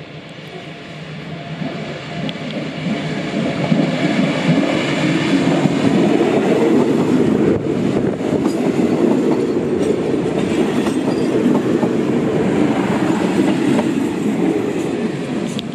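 Diesel railcar passenger train passing close by, its engines and wheels on the rails making a heavy rumble with some clickety-clack. It grows louder over the first few seconds and starts to ease off near the end.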